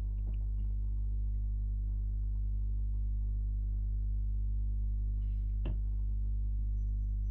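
Steady low electrical hum with a stack of evenly spaced overtones, holding a constant level; a faint click about five and a half seconds in.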